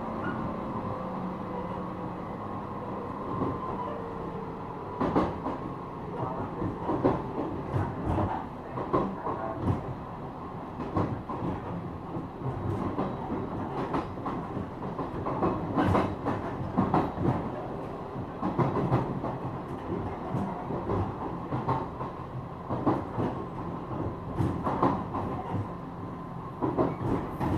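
Onboard running sound of a JR East 455 series EMU motor car with MT54 traction motors: a steady rumble, with a faint hum that dips slightly in pitch and fades in the first few seconds. From about five seconds in, irregular clicks and thumps of the wheels over rail joints run through the rest.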